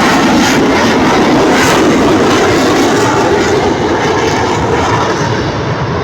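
Loud, steady roar of an F-35 fighter jet's engine, easing off slightly over the last couple of seconds.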